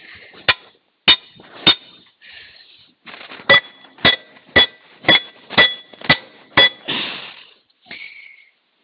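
Hammer blows on steel, each with a short metallic ring: three strikes, a pause, then seven at about two a second, working at the old final drive sprocket to free it from its hub. A short scrape follows near the end.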